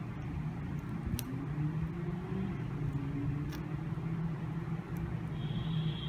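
A steady low mechanical hum runs throughout, with a few faint sharp clicks of metal tweezers picking at the phone's battery pull tabs.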